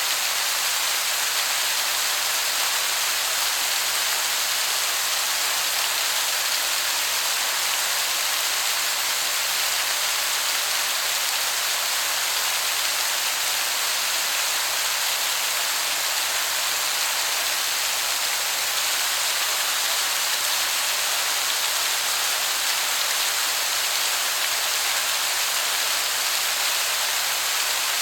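Waterfall heard from a distance as a steady, even rush of falling water that sounds like heavy rain.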